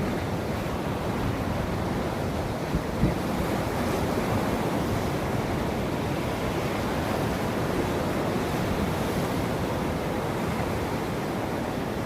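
Ocean waves washing onto a shore in a continuous, even rush, with a brief low thump about three seconds in.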